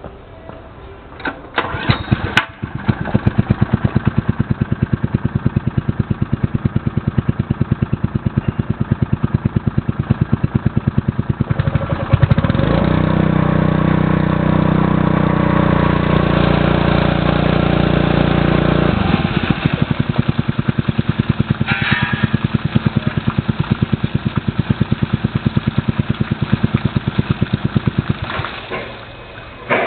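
Terada ER 50GS engine pump's small engine starting about two seconds in and idling with a slow, even firing beat. It speeds up and runs steadily for about seven seconds around the middle, drops back to idle, and shuts off near the end.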